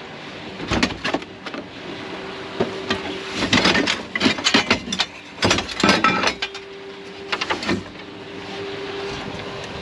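Objects being handled and rummaged through, giving irregular knocks and clatter in two busy spells, over a steady hum.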